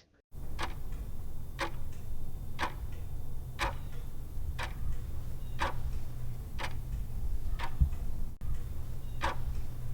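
Clock-ticking countdown timer sound effect, about one tick a second, over a low steady hum.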